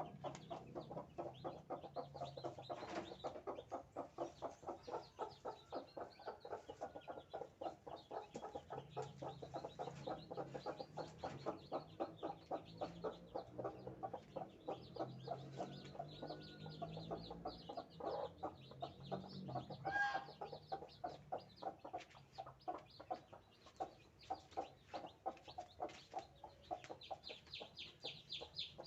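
A mother village hen clucking in a rapid, steady run of short calls, several a second. Near the end, high peeping from her newly hatched chicks joins in.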